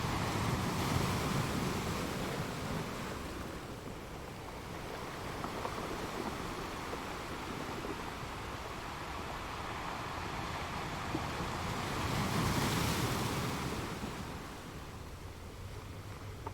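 Sea waves breaking and washing against rocks: a steady rush of surf that swells twice, near the start and again about three-quarters of the way through, then eases off.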